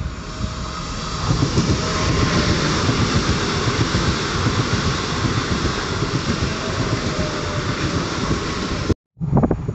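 A train running past on the line, a steady loud rush of wheels on rails that swells about a second in. It cuts off abruptly near the end.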